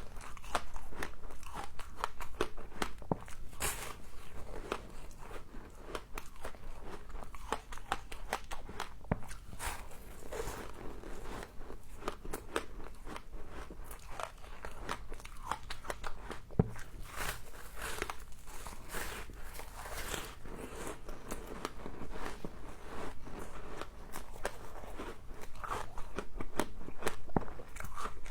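Close-up crunching of frost being bitten and chewed: a dense, irregular run of crisp crackles.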